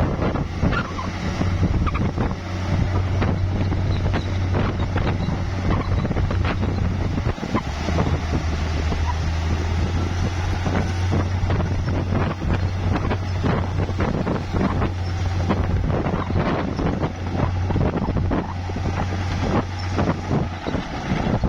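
Bulldozer's diesel engine running steadily under load, with frequent clanks and knocks of metal and rock as it pushes dirt, and wind buffeting the microphone.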